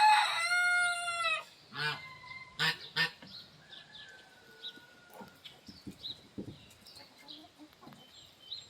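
A rooster crows once at the start, holding a loud, pitched note that falls away at its end. A few short calls from the chickens follow, with faint high chirps after that.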